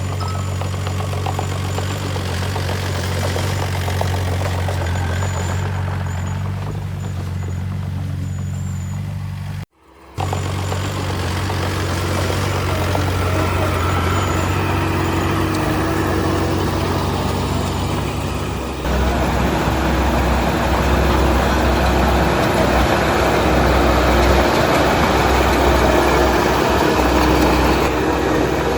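Heavy diesel engine of earthmoving machinery running steadily. The sound cuts out for a moment about a third of the way in, and about two-thirds in it switches abruptly to a lower, rougher engine sound.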